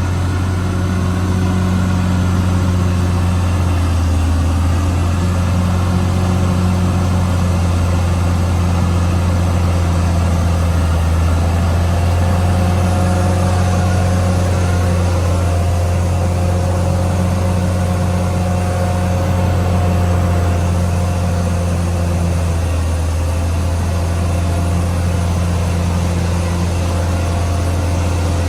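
Caterpillar D6R XL bulldozer's diesel engine running steadily with a deep hum. A fainter, higher whine joins it about twelve seconds in.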